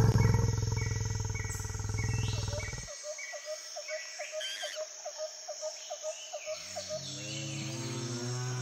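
Wild animal sound effects. A low, rough roar lasts about three seconds, then comes a run of quick, evenly spaced chirps, about three a second. A steady low drone comes in near the end.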